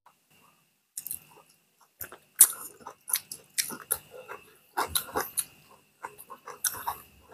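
Close-up mukbang eating sounds: two people chewing boiled pork and rice with wet lip-smacks and mouth clicks, and sucking food off their fingers. After about a second of near silence, the smacks start and come thick and fast from about two seconds in.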